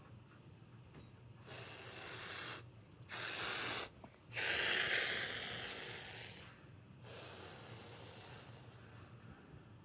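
Breathy hissing in four separate bursts, each one to two seconds long; the third, a little past the middle, is the loudest and longest.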